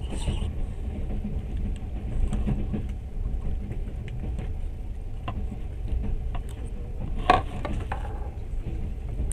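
Railway carriage running: a steady low rumble with scattered light clicks, and a short knock about seven seconds in.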